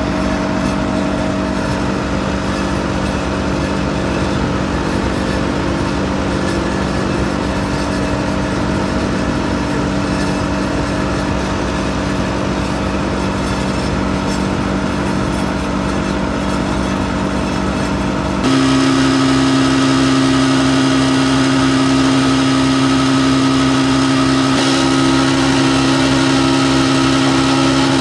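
Massey Ferguson 399's six-cylinder diesel engine running steadily under working load. About two-thirds of the way through, the note changes abruptly, becoming louder and shifting in pitch.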